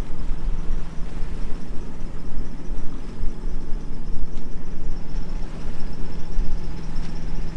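Wind buffeting the microphone in uneven gusts over the steady hum of a small sailboat's auxiliary engine running while under way.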